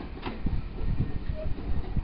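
Passenger coaches rolling slowly along the platform: a low rumble of wheels on the track with irregular knocks, and a sharp click about a quarter of a second in.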